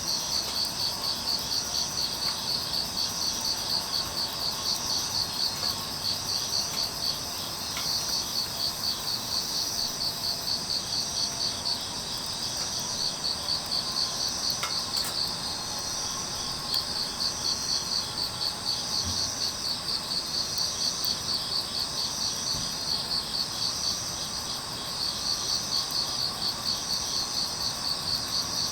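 Crickets chirping in a steady pulsing rhythm of about three chirps a second, with a steady high trill of other insects beneath. The chirping pauses briefly a couple of times, and there are a few faint clicks.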